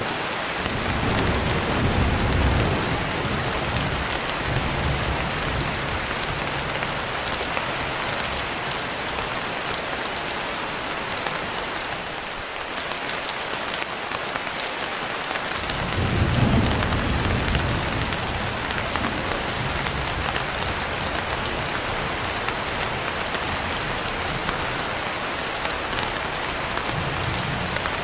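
Steady, heavy rain with two long rolls of low thunder, one rumbling in right at the start and a louder one about sixteen seconds in, with a faint third rumble near the end.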